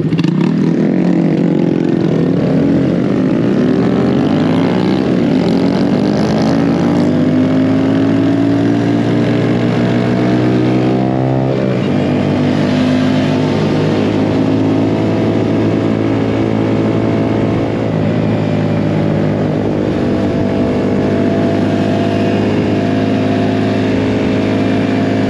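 Mini bike engine pulling hard: its pitch climbs over the first several seconds as it accelerates, then holds at a steady high speed. About eleven seconds in the revs drop briefly, then pick up again.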